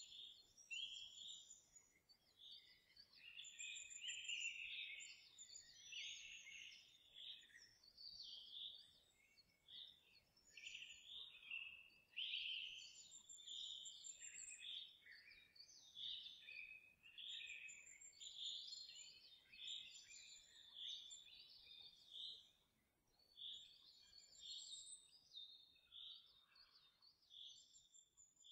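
Faint birdsong: many short chirps and calls overlapping continuously, with brief high trills now and then.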